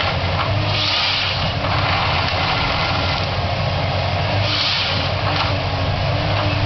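Komatsu PC228 forest harvester's diesel engine running steadily, with a low hum. Two swells of higher hissing noise come about a second in and about four and a half seconds in.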